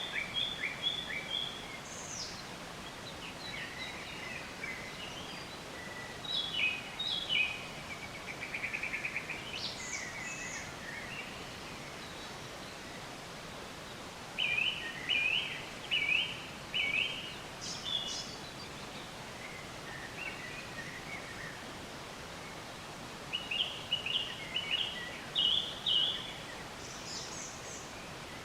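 Songbirds chirping and singing in short, separate phrases over a steady background hiss: quick high notes, a brief trill, and a run of four similar notes about half a second apart around the middle.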